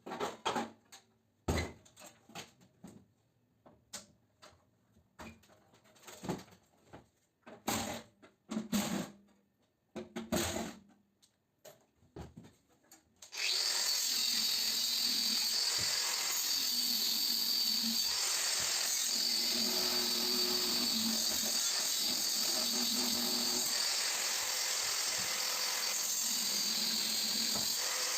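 Scattered knocks and clicks of parts being handled while scrapping an air-conditioner unit, then about halfway through a handheld power tool starts suddenly and runs steadily, with a high whine.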